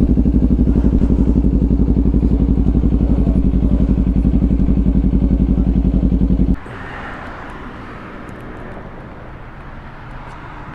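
Motorcycle engine idling loudly with a fast, even pulse. It stops abruptly about six and a half seconds in, leaving quieter background noise.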